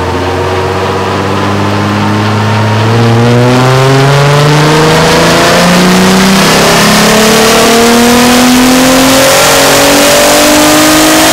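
2012 Jeep Wrangler JK's 3.6-litre V6, breathing through a cold air intake and cat-back exhaust, making a full-throttle pull on a chassis dyno: engine pitch climbs steadily throughout as the revs build, getting louder about three seconds in, with a rising hiss alongside.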